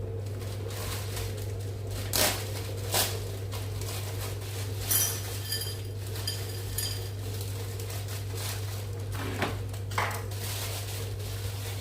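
Kitchen pots and utensils being handled: a few sharp knocks, and around the middle a run of light metallic clinks that ring briefly, over a steady low hum.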